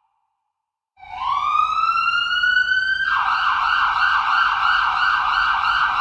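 Emergency vehicle siren starting up after a second of silence: a wail rising in pitch for about two seconds, then switching to a fast yelp warbling up and down about four times a second.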